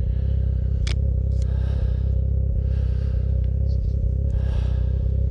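Ski-Doo Expedition snowmobile engine idling steadily, with a single sharp click about a second in.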